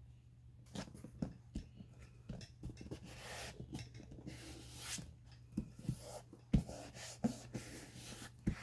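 Paper handling and cutting at a craft table: rustling and scraping of heavy paper with scattered clicks and taps of tools, the sharpest click about six and a half seconds in. A steady low electrical hum runs underneath.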